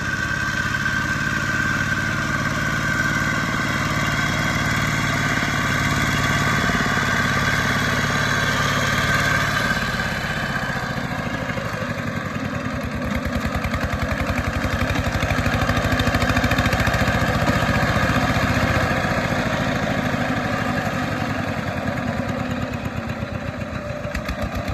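A small tractor's engine runs throughout. For the first ten seconds a steady, even engine hum dominates. From about twelve seconds in, the rapid, even beat of the engine's firing comes to the fore and grows louder for a few seconds, as if the tractor is working under load.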